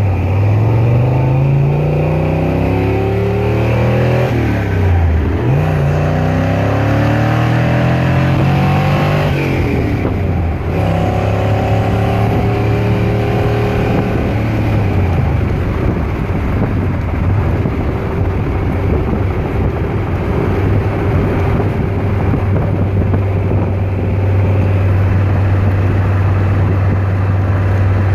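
BluePrint Engines 306 cubic-inch Ford small-block V8 in a Factory Five '33 hot rod, pulling through the gears. The engine note climbs, drops at a gear change about five seconds in, climbs again and drops at another shift around ten seconds, then settles into a steady cruise over road and wind noise.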